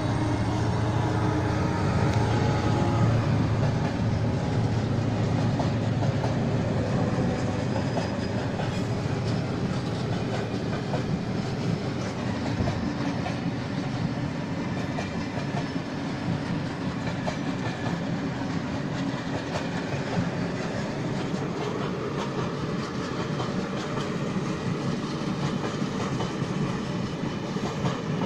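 Freight train rolling past: a steady rumble of passing wagons with a rapid clatter of wheels on the rails.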